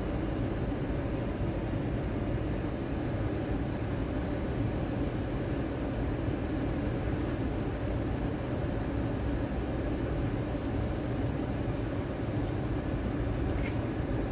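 Steady low rumble and hum inside a stationary car's cabin, the engine idling, unchanging throughout.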